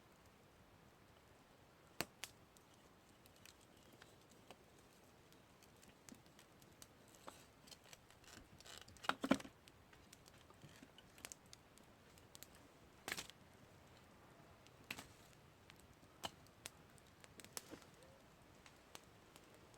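Campfire crackling: scattered sharp pops and snaps of burning wood over a quiet background, with a quick cluster of crackles about nine seconds in.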